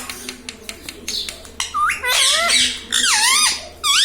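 Indian ringneck parakeet giving three or four loud squawking calls, each swooping up and down in pitch, in the second half, after a run of soft clicks.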